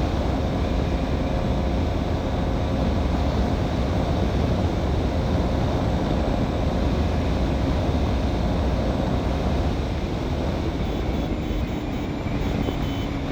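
KTM Duke 200 BS6's single-cylinder engine running steadily at high revs near top speed, under heavy wind rush on the microphone. It eases slightly near the end.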